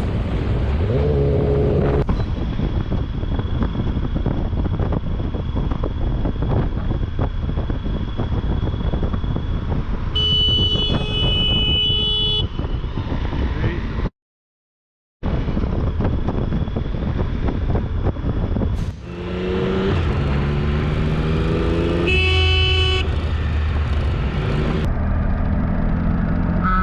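Wind rush and engine noise of a moving motorcycle, with a car horn blaring for about two seconds around ten seconds in. After a brief cut to silence, the motorcycle engine revs up in rising steps through the gears, and more horn honks follow near the end.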